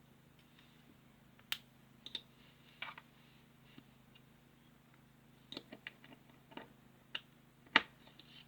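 Small plastic figure and building-block pieces being handled and clicked together: scattered light clicks and taps, a quick run of them past the middle and one sharper click near the end, over a faint steady hum.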